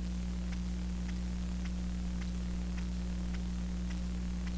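Steady electrical mains hum with a hiss of static, and faint ticks about two a second.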